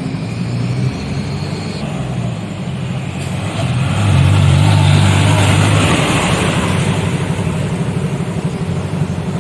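Truck engine running steadily, with a low drone and road hiss that swell louder about four seconds in and then ease off a little.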